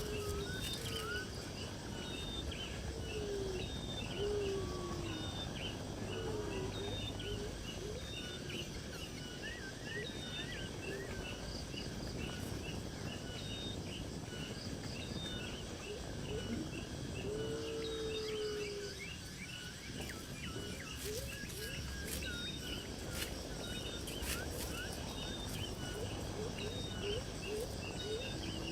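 Natural ambience of insects and birds calling over a steady hiss: a regular series of short high chirps, about two a second, with lower gliding calls coming and going.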